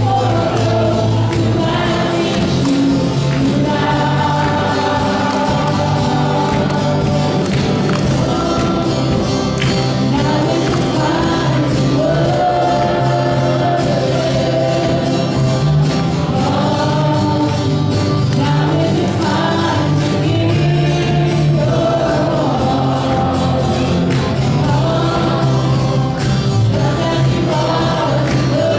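Church worship team performing a gospel song: group singing over a full band, with tambourine.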